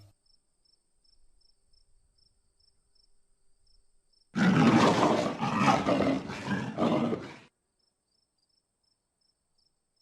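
A large wild animal roaring once for about three seconds, starting a few seconds in, a rough, throaty sound.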